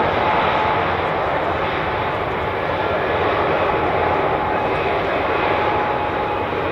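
Airliner engine noise: a loud, steady rush with a faint steady whine running through it.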